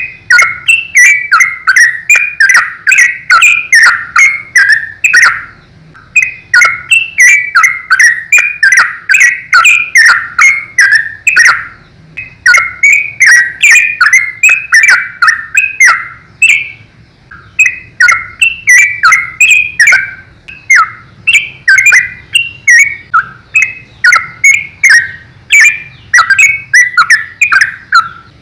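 Yellow-vented bulbul singing 'ropel' style: long, fast runs of short chirping notes, several a second, broken only by a few brief pauses.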